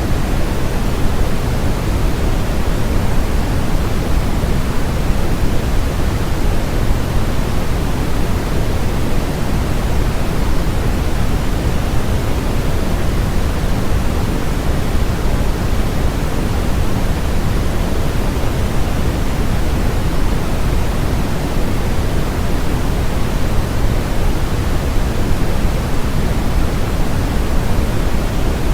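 Steady generated noise sold as white noise: an even, unchanging rushing hiss, heavier in the bass than in the treble, with no breaks or events.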